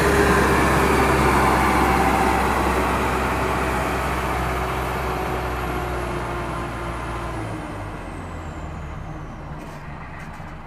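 A vehicle engine running steadily with a hiss and a low drone, fading gradually away over about ten seconds.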